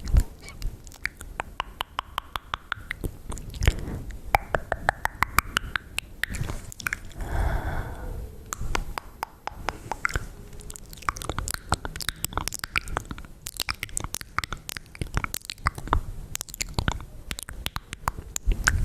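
Close-miked ASMR mouth sounds: wet clicks and smacks, many in quick clusters.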